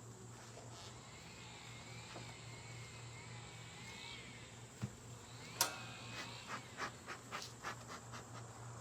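Metal hive tool working on a beehive: one sharp metallic clink with a short ring about five and a half seconds in, then a run of short scraping strokes, about three a second. A faint steady hum lies underneath.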